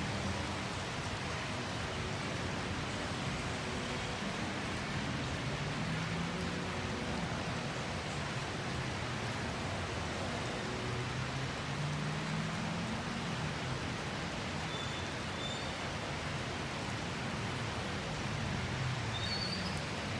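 Steady rain hiss, with the low hum of vehicle engines rising and falling underneath and a few faint short high chirps near the end.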